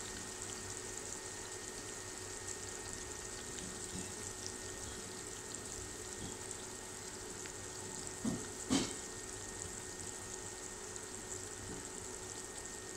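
Sliced onions sizzling steadily in hot oil in a wok, at the early stage of frying while they are still pale. Two short knocks sound about eight seconds in.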